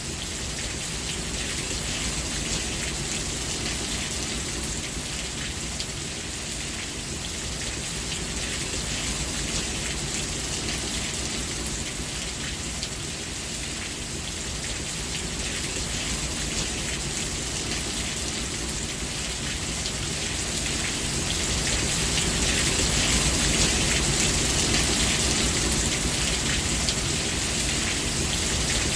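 Steady rain falling, a dense even patter with no breaks, growing a little louder about two-thirds of the way through.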